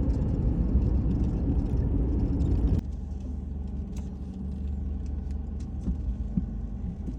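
Steady low road and engine rumble inside a moving car. It drops suddenly to a quieter rumble about three seconds in.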